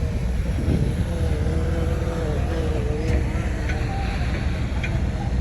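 Heavy diesel engine of a bulldozer running with a steady low rumble. A wavering whine rises and falls about a second in, and a few short clicks come near the end.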